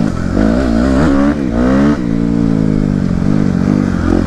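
Dirt bike engine being ridden, revved up and down several times on the throttle, then a long ease-off with the pitch slowly falling, with a sudden change in the engine note near the end.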